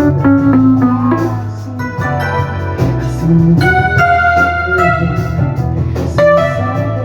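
Instrumental keyboard music: electric-piano and organ voices from a sampling synthesizer play held chords and melody notes over a steady bass line.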